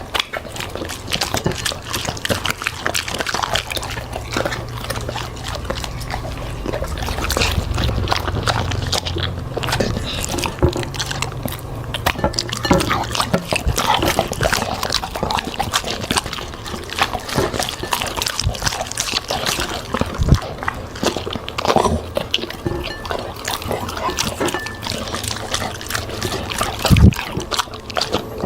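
A dog eating fruit and vegetables, chewing with many quick, irregular crunches and clicks.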